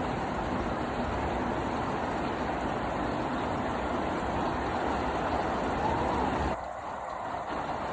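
Steady heavy rain, an even hiss and patter, easing briefly about six and a half seconds in.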